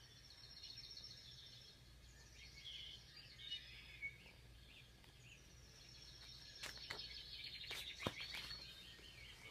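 Faint songbirds chirping and trilling in quick, high-pitched runs, with a few short sharp clicks late on.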